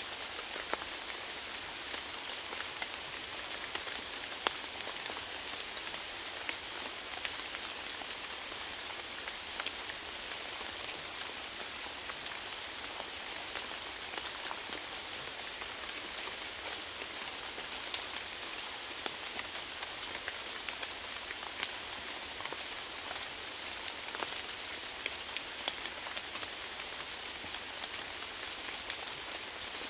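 Steady rainfall: an even hiss of rain with many individual drops ticking sharply on a hard surface.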